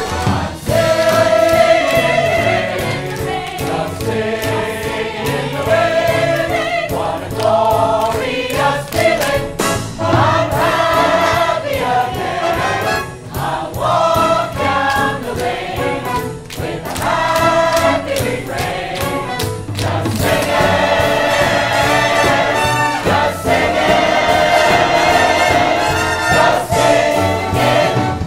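A chorus of voices singing a stage-musical number with instrumental accompaniment, growing fuller about two-thirds of the way through.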